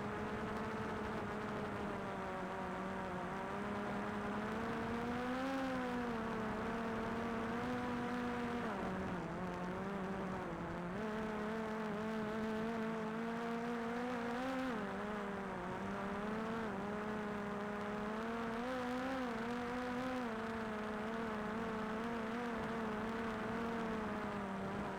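Propellers of a DJI Air 2S quadcopter drone whirring in a steady hum whose pitch wavers up and down every few seconds as the motors adjust.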